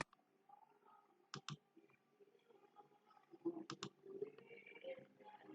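Near silence broken by faint clicks, in two quick double clicks about two seconds apart.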